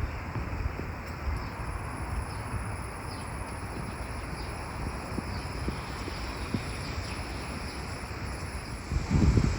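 Outdoor ambience: a steady rushing hiss, with wind buffeting the microphone in a low rumble and a strong gust near the end.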